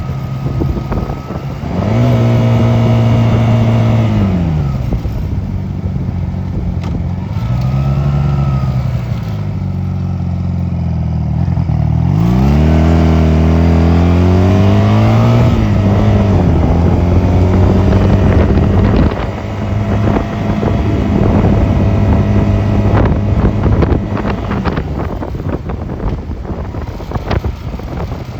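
Honda 250cc motorcycle engine under way: it revs up and eases off a few times, then runs at a steady pace and grows quieter near the end.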